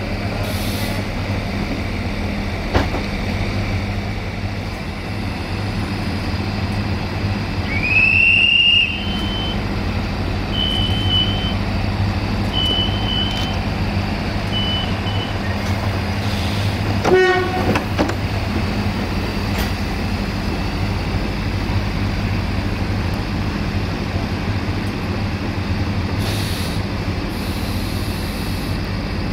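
ADH11 diesel railcar running, heard from on board: a steady engine and wheel drone. About eight seconds in, a high-pitched squeal rises and holds, then comes back in short pieces for several seconds. A short sharp sound follows a little past halfway.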